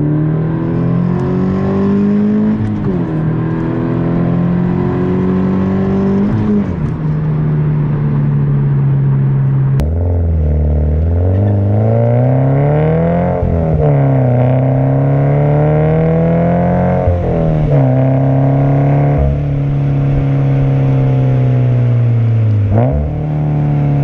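Subaru BRZ's 2.0-litre flat-four engine, heard through an Invidia N1 cat-back exhaust, accelerating hard. Its deep note rises through the revs and drops sharply at each of several upshifts, then falls away near the end.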